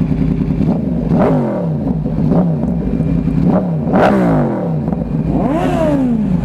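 Yamaha R1 cross-plane inline-four through a loud Toce full-system exhaust, idling and then revved about five times in quick blips, each rev rising sharply and dropping straight back to idle.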